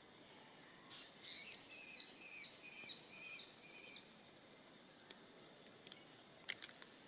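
A bird singing a run of short chirping phrases for about three seconds, starting about a second in. A few sharp clicks follow near the end, the loudest about six and a half seconds in.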